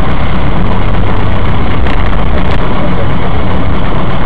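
Car engine and road noise heard from inside the cabin through a dashcam microphone: a loud, steady, low hum with no break.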